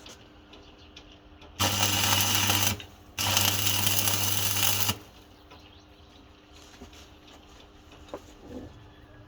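Electric arc welding: two short welds, the first about a second long and the second nearly two, each a steady buzzing hiss that starts and cuts off abruptly.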